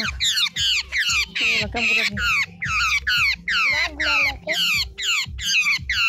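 A bird caught in a net giving rapid distress shrieks, about three a second, each sliding down in pitch.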